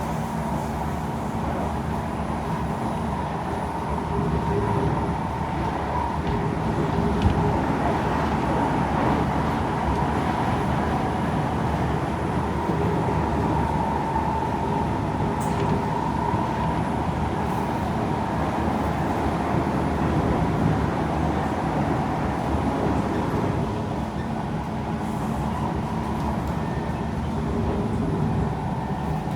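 Kawasaki C151 metro train running between stations, heard inside the carriage: a steady rumble of wheels on rail with a humming tone over it. A single short knock comes about seven seconds in.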